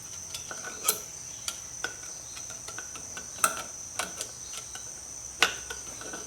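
Metal tools clicking against the retaining ring and hub of a Rolls-Royce Phantom III wheel hub as the ring is worked out, a few sharp irregular clicks spread over several seconds. A steady high-pitched tone sounds behind them.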